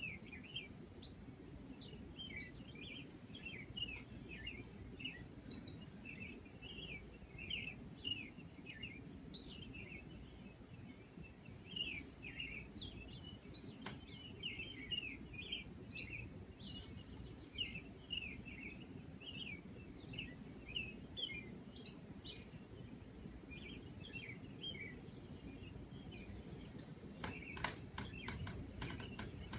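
Small birds chirping, with many short, quick chirps all the way through over a low steady background rumble. A quick run of sharp ticks comes near the end.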